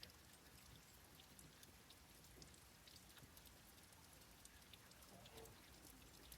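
Faint, steady rain: a soft hiss with many separate drops ticking as they land.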